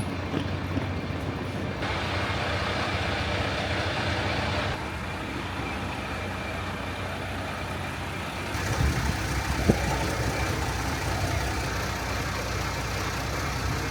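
Train running, a steady rumble whose character changes abruptly a few times, with a single sharp knock about ten seconds in.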